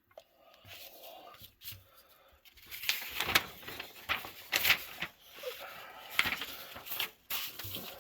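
Paper rustling and crinkling as a printed instruction sheet is handled and turned over to the next page, with several sharp crackles.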